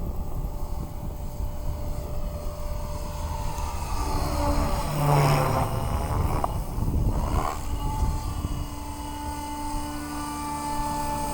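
Align T-Rex 550X electric R/C helicopter in flight, its rotor and motor running with several steady tones over a low rumble. Midway the sound swells and the tones bend in pitch for a few seconds.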